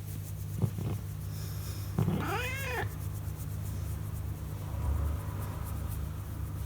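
Brown tabby cat meowing once about two seconds in, a call that rises and then falls in pitch, over a steady low rumble. A contented meow while being stroked.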